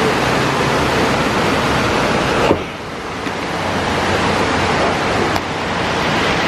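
Waterfall's loud, steady rush of falling water, with a sudden drop in level about two and a half seconds in that builds back up.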